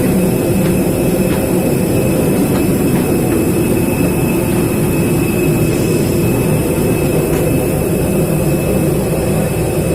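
Steady airliner cabin noise: a constant low rumble of jet engine and ventilation with a faint high steady whine, heard from inside the cabin of a jet on the ground before departure.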